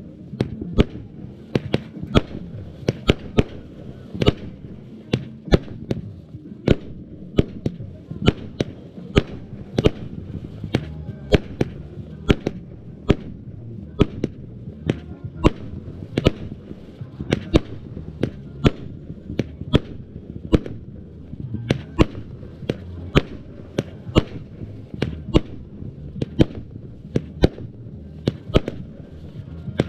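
A 100-shot consumer firework cake firing its shots in steady succession, a sharp bang about twice a second.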